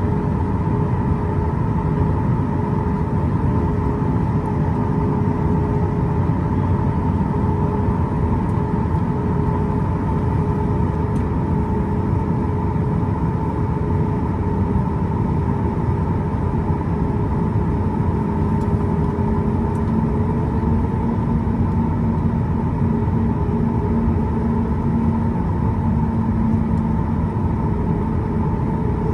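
Boeing 737-8 MAX's CFM LEAP-1B engines running at a steady low power, heard inside the passenger cabin as a steady rumble with a couple of held tones. A lower tone joins about two-thirds of the way through.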